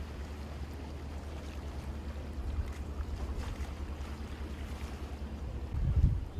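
Wind buffeting the microphone over a steady low rumble, with a stronger gust near the end.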